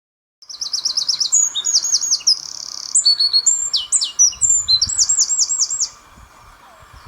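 Eurasian wren singing one loud, fast song of high notes and trills, with a rattling trill partway through, lasting about five and a half seconds.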